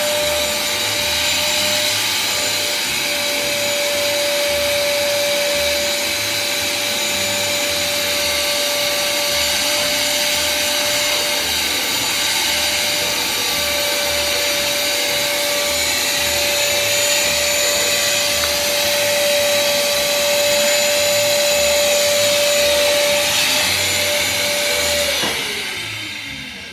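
Household vacuum cleaner running with a steady motor whine and hiss, then switched off near the end, its motor winding down with a falling pitch.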